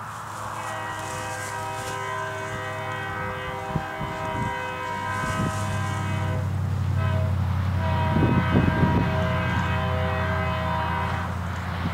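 ALCO diesel locomotive's multi-note air horn blowing two long blasts, the second starting about seven seconds in, while the diesel engine's low drone grows louder from about five seconds in.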